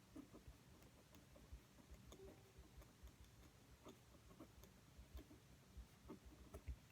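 Very faint, irregular light taps and clicks of a pen writing on paper at a desk, a few a second.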